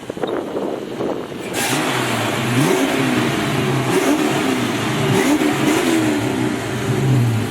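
Fox-body Mustang's 5.0 V8 revved several times through a 2.5-inch Magnaflow exhaust: the pitch rises and falls repeatedly, starting about a second and a half in. The owner thinks it sounds a little clogged.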